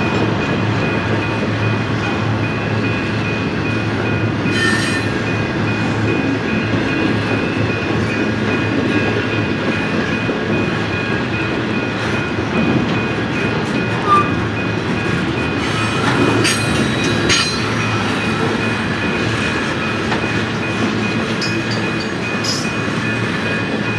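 Union Pacific intermodal freight cars rolling past: a steady rumble of wheels on rail with a thin, steady high-pitched tone over it. A few short clanks come about five seconds in and again around sixteen to seventeen seconds.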